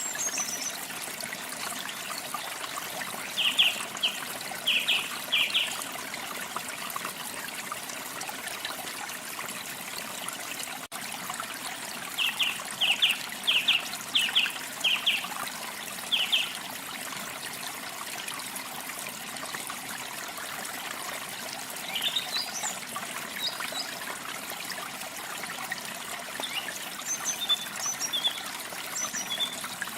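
Steady trickle of running water, with small birds calling over it: two runs of short, repeated chirps a few seconds long, about 3 s in and again about 12 s in, then a few higher, thinner notes near the end.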